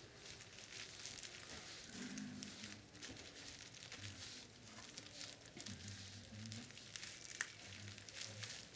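Faint rustling and scattered small clicks from hands and tools working on a cassette recorder's plastic tape mechanism during disassembly.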